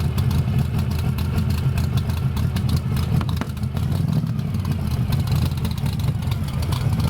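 A vehicle's gasoline engine idling steadily with a deep, even rumble.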